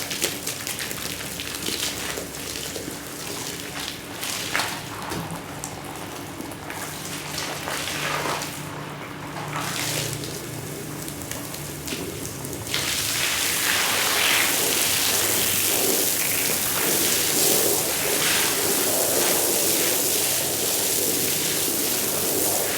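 A wet, muddy shag rug being worked: irregular scrubbing strokes over a faint motor hum, then about halfway through a strong jet of water starts spraying onto the rug with a loud, steady hiss.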